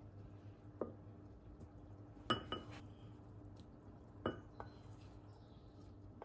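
Kitchenware clinking: a few light knocks of dishes and utensils against each other, coming singly and in pairs, each ringing briefly, over a faint steady hum.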